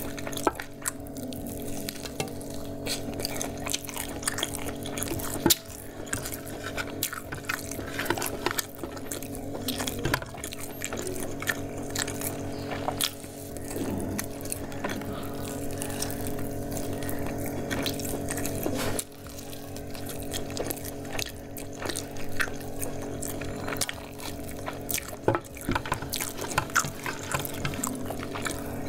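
Close-miked, wet chewing and lip-smacking of chicken eaten off the bone by hand, many small clicks and squelches, over a steady low hum.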